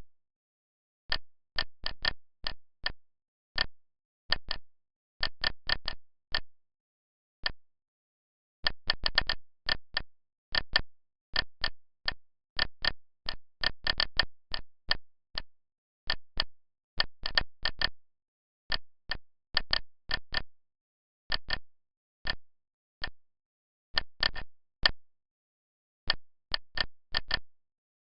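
Short, identical electronic key clicks from a CNC lathe simulator's control panel as a program is typed in, coming in irregular bursts of several presses with pauses between.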